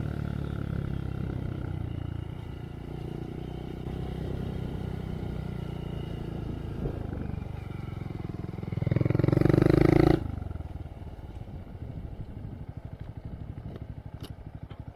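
2023 Honda Monkey's single-cylinder engine through a Yoshimura RS3 exhaust with spark arrestor, running steadily under way. About nine seconds in it revs up loudly for a second or so, then drops back to a quieter, evenly pulsing idle.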